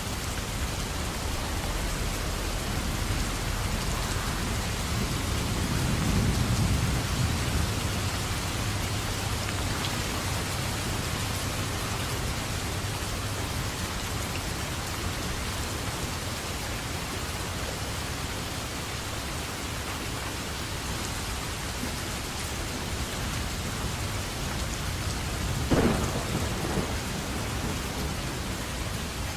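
Steady rain with thunder. A low rumble swells about six seconds in, and a sharp thunderclap cracks near the end.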